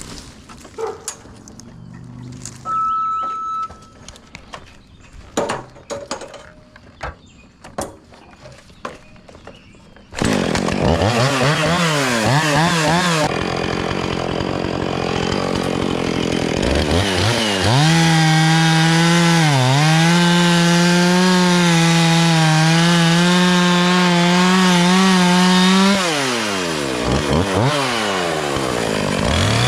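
Scattered knocks and clicks with a short beep, then a gas chainsaw starts revving about a third of the way in. It settles into a long cut through a limb at steady high revs with a brief dip in pitch, drops off near the end, and revs up again.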